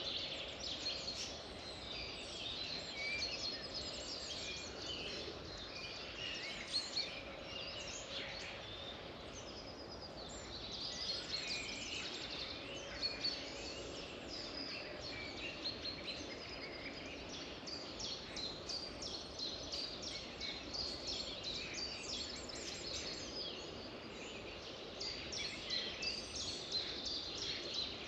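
A chorus of many songbirds chirping and trilling at once, a dense overlapping stream of short high notes with no pause, over a steady background hiss.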